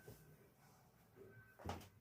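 A single short knock about three-quarters of the way through, over faint room sound.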